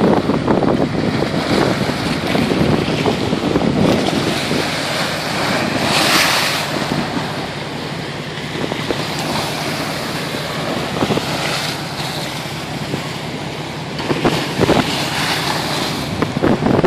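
Storm-driven lake waves breaking and washing over a stone-paved embankment, with a continuous rush of surf and wind buffeting the microphone. A loud hissing wash comes about six seconds in, and several more waves crash near the end.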